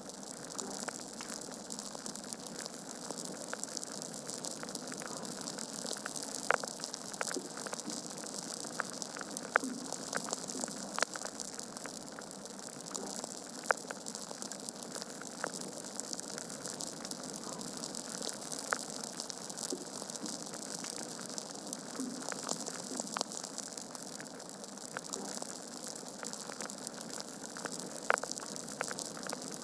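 Wood fire in a fireplace crackling: a steady hiss with irregular sharp pops and snaps of burning logs, a few standing out louder.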